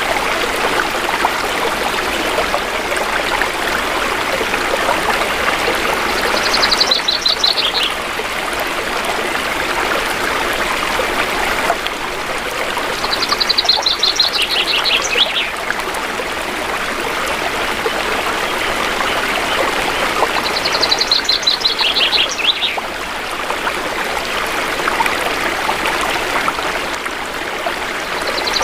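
Shallow river water flowing steadily. A bird repeats the same short song four times, about every seven seconds: a quick run of high notes that steps down in pitch.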